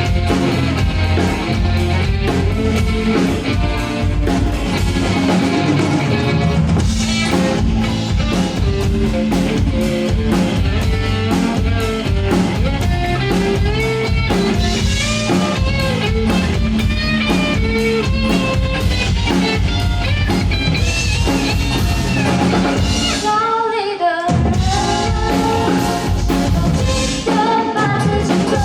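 A band plays a pop-rock song with a drum kit, guitar and a singing voice. Near the end the instruments drop out for a moment, then come straight back in.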